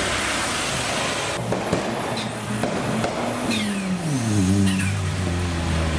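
A car doing a burnout: a broad hiss of spinning tyres with a few short high squeals, then the engine's revs drop about four seconds in and settle to a steady lower drone.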